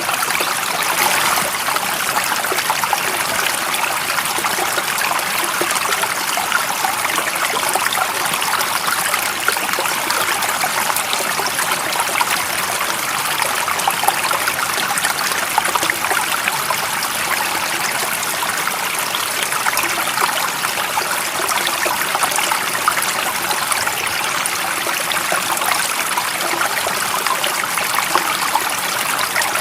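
Running water, a stream flowing steadily: an even, bright rush with little low rumble and no break or change.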